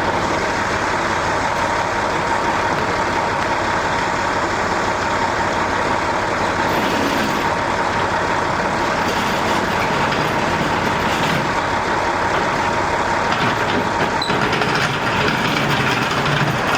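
A steady mechanical drone like an idling engine, with a faint steady whine over it and no change in level.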